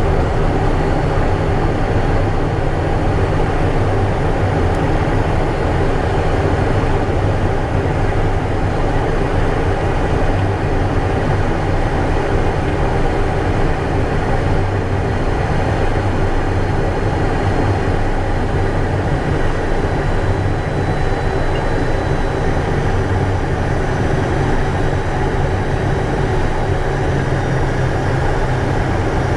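Steady cockpit noise of a Cessna Citation I's twin turbofan jet engines and airflow, heavy and low, with a faint thin high whine above it.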